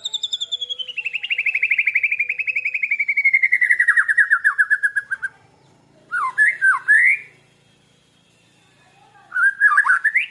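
Birdsong from a white-rumped shama and a lovebird: a long, rapid trill that falls steadily in pitch over about five seconds. After a short pause come two brief phrases of quick up-and-down whistled notes.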